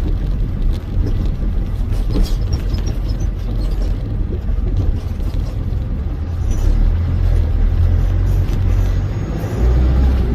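Truck driving on the road: a steady low engine rumble mixed with road noise.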